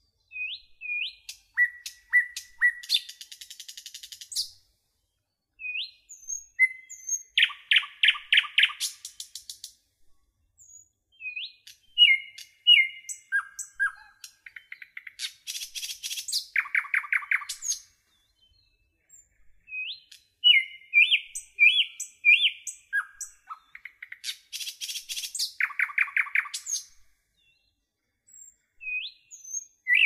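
Songbirds singing in bursts. There are short rising whistled notes, a fast rattling trill three times, and high buzzy trills, with silent pauses of a second or two between bursts.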